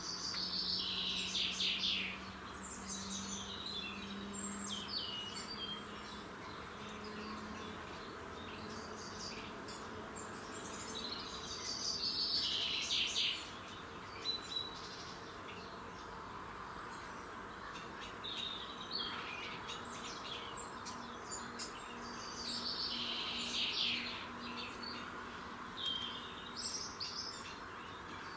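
Songbirds singing: one bird repeats a loud, descending trilled song phrase of about two seconds roughly every ten seconds, with shorter chirps from other birds between, over a faint low hum.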